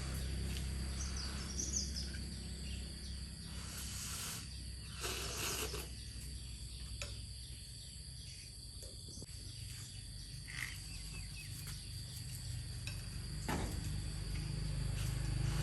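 Insects chirping steadily over a low hum, with a couple of brief rustling noises about four and five seconds in.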